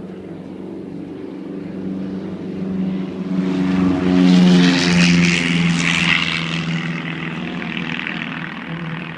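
Propeller airplane passing close by, its engine drone growing louder to a peak about four to five seconds in, then fading away.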